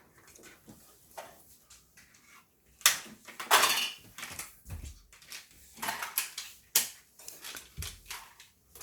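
Plastic toy train track pieces clattering and clicking as they are handled and snapped together, in irregular knocks with a longer scraping rustle about three and a half seconds in.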